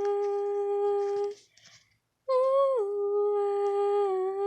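A voice humming long, steady held notes. There is a short break about a second and a half in, and the next note starts higher and slides down before holding steady.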